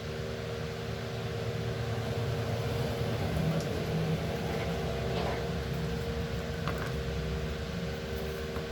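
Electric fan running with a steady hum and whoosh, with a few faint clicks over it.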